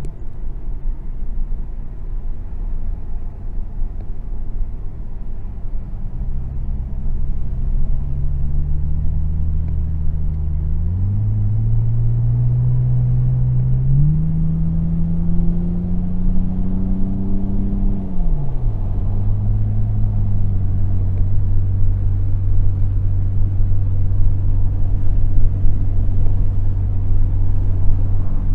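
Car engine running under a low rumble. Its revs climb in steps for several seconds, then drop back to a steady lower hum.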